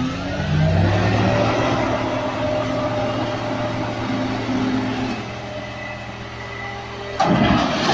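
Tractor engine revving up, then held at high revs under load as the machine tries to pull out of mud. A sudden loud burst of noise cuts in near the end.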